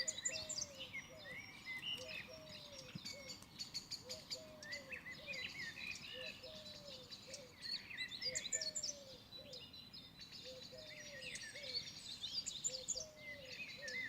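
Several birds chirping and twittering outdoors, with a lower call repeated over and over beneath the higher chirps.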